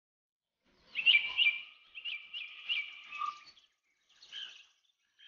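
A bird calling outdoors: a run of quick, high chirping notes, about three a second, for some three seconds, then a shorter call near the end.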